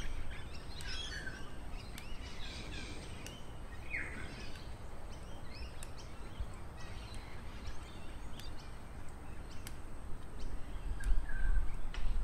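Several birds chirping and calling, with short scattered calls and one clear falling call, over a low rumble that grows louder near the end.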